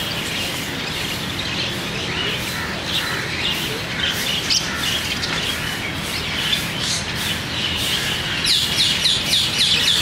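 Birds chirping and calling, many short calls overlapping, with a fast run of short falling chirps, about five a second, starting near the end.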